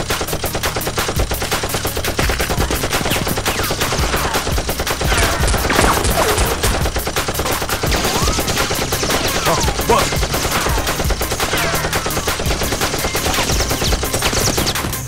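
Rapid automatic gunfire sound effects standing in for Nerf blasters firing, the shots coming many times a second without a break, with short whistling glides here and there.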